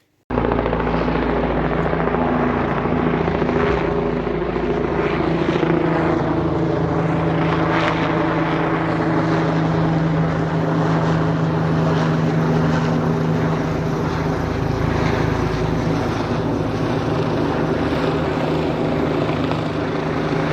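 Police helicopter's rotor and engine running steadily, starting abruptly a fraction of a second in.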